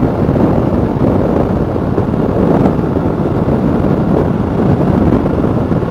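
Steady wind rushing over the microphone of a motorcycle on the move, with the bike's engine and road noise running underneath.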